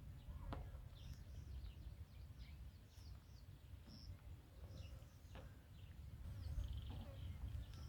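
Several small birds chirping and calling over a low, steady rumble, with a couple of sharp clicks.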